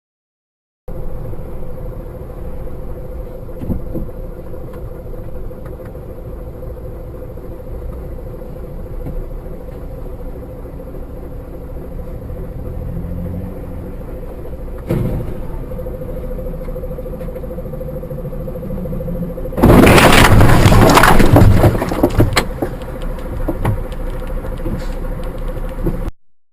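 Dashcam recording of a car on the road: steady road and engine noise with a faint constant hum. About twenty seconds in comes a sudden, very loud crash lasting about two seconds, followed by a few smaller knocks, the sound of a collision.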